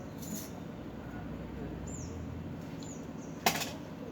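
A single sharp knock about three and a half seconds in, over a low background hum, with a few faint, short, high chirps that fall in pitch.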